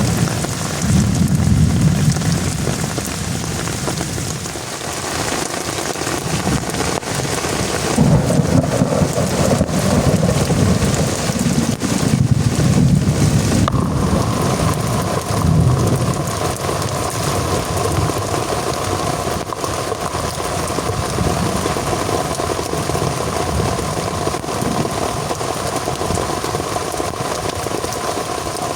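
Heavy rain falling steadily, with low rumbles of thunder swelling and fading through the first half. About halfway through the sound changes abruptly to an even, steady downpour.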